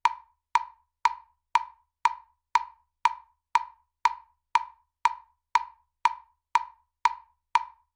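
Metronome clicking steadily at two clicks a second (about 120 beats per minute), each a short, sharp wood-block-like tick.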